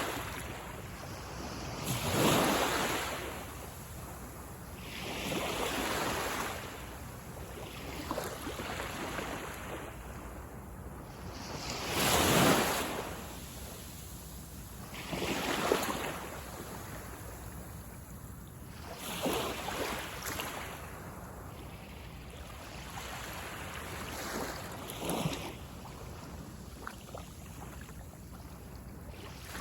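Small sea waves breaking on a sandy beach: a wash of surf swells and fades every three to four seconds over a steady hiss of sea. The biggest breakers come about two seconds in and again about twelve seconds in.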